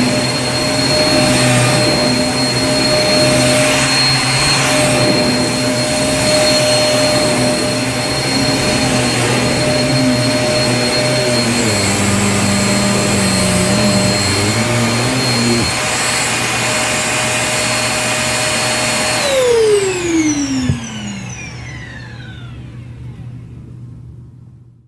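Vacuum cleaner running with a steady whine over rushing air. About nineteen seconds in the motor winds down: its whine slides down in pitch and the sound fades out.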